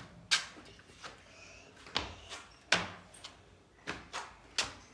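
A series of sharp, irregular clicks and knocks, about eight in all, like a door, latch or cage being handled.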